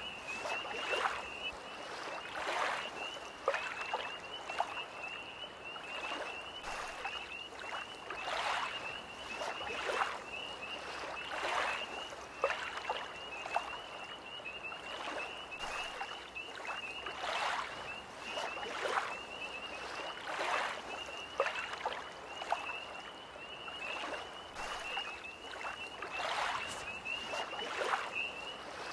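Small lake waves lapping in an irregular rhythm, a soft splash every second or so, over a continuous high, rapidly pulsing trill from a chorus of tree frogs.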